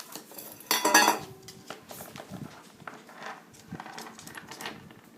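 Coins clinking and rattling against a small bucket as a parrot handles them: one loud clatter about a second in, then scattered light clicks and clinks.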